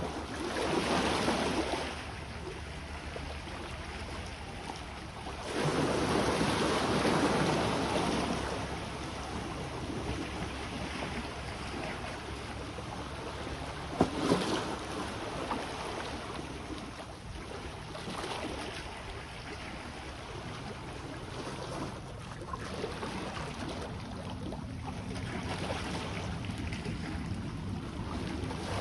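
Sea waves washing onto the shore in surges, loudest about a second in and again for about three seconds from five and a half seconds, over a steady low rumble of wind on the microphone. A single sharp click about fourteen seconds in.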